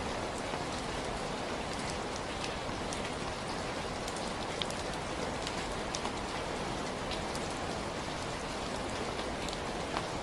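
Steady rainfall, a constant hiss of rain with scattered distinct drop ticks on a hard surface throughout.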